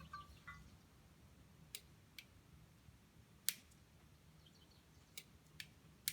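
Near silence with a faint low hum and about six scattered sharp clicks, the loudest about three and a half seconds in.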